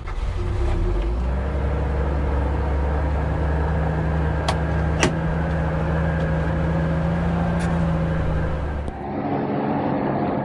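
Vehicle engine running at a steady speed while driving, heard from inside the cab, with a few short sharp clicks in the middle. The engine note changes about nine seconds in.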